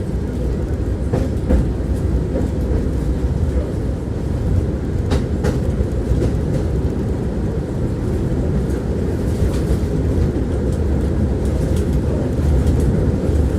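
Tram running along the track, heard from inside the car: a steady low rumble of steel wheels on rails, with a few sharp clicks, twice in quick pairs, as the wheels pass over rail joints.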